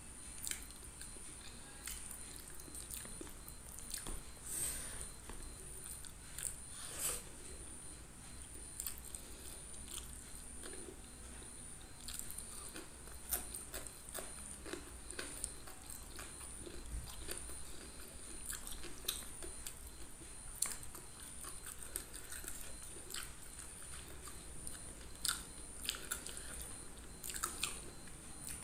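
Close-up eating sounds: chewing a mouthful of curried fish and rice, with scattered small wet clicks and smacks at irregular intervals.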